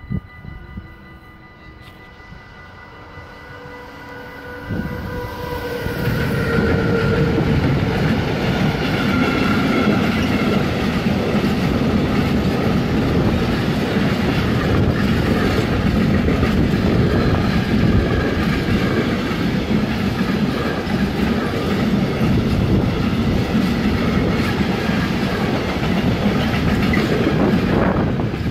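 Electric freight train, Siemens Vectron and Bombardier TRAXX locomotives hauling empty container flat wagons, approaching and passing. Faint steady tones are heard as the locomotives draw near. About five seconds in they reach the microphone and it turns loud, with the wagons rumbling and clattering over the rails steadily for the rest of the time.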